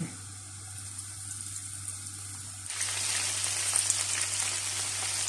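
Breadcrumb-coated chicken pieces frying in hot oil in a pan: a steady sizzle and crackle that turns suddenly louder and denser about halfway through.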